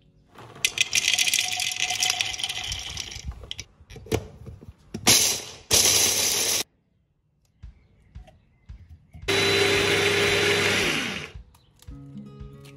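Electric kitchen appliance motor, such as a blender, run in four bursts: one long, two short, then another long one whose pitch falls away as the motor stops.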